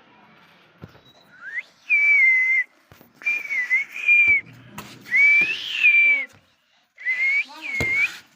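Parrot giving four loud, shrill calls, each about a second long and held at one high pitch with a slight waver, the first one rising into it.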